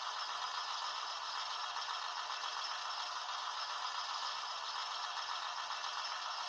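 H0-scale Viessmann Robel 54.22 model track-crane vehicle running under digital control: a steady, even mechanical noise with no beat or separate knocks.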